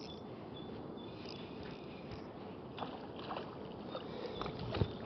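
Water lapping and splashing around a fishing kayak while a hooked bream is fought, with a few short sharp splashes or knocks in the second half, the loudest near the end.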